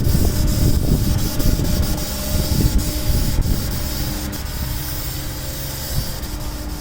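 Paint sprayer hissing steadily over a low rumble during exterior painting.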